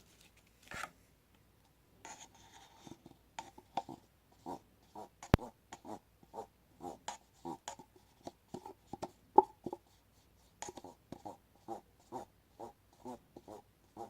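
Stir stick scraping against a cup of casting resin in short, repeated strokes, about two a second, with one sharp click about five seconds in.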